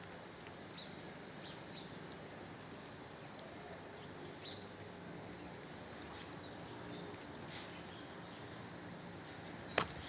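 Small birds chirping now and then, faint and scattered, over a steady hiss of outdoor background noise. A sharp click comes near the end.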